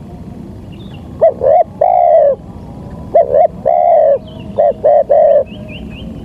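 Spotted dove (tekukur) cooing loudly: two phrases of two short coos ending in a long, falling coo, then a third phrase of three coos, with faint chirps of small birds near the end.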